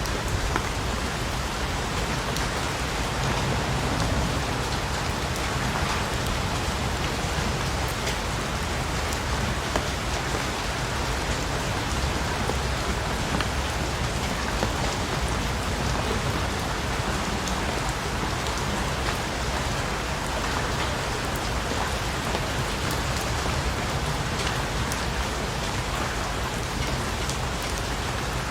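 Steady rain falling and pattering on a surface, a continuous even hiss with many small drop ticks throughout.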